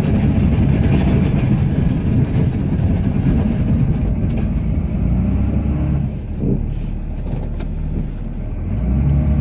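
Cummins straight-six turbodiesel in a Ram pickup running under load while plowing snow, heard from inside the cab. Its pitch rises and falls twice, once about two-thirds of the way through and again near the end, as the engine is revved and eased off.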